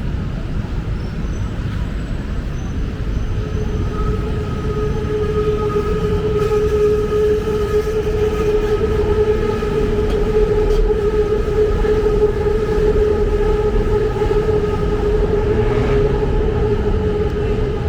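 Metro train running past, a low rumble with a steady electric-motor whine that sets in about four seconds in and holds.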